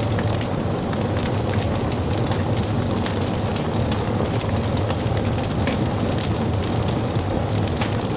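Wood fire burning: a steady low rumble of flame under frequent small crackles and pops from the burning wood.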